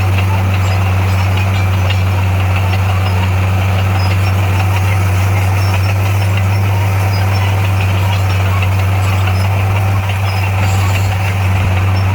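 Heavy diesel engine of earthmoving equipment running steadily at a constant low pitch.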